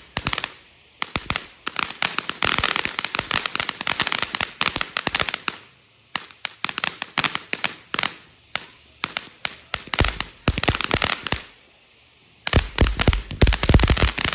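Firecrackers going off in rapid crackling volleys, dozens of sharp cracks in quick succession, with short breaks about six and twelve seconds in and a louder, denser run of cracks near the end.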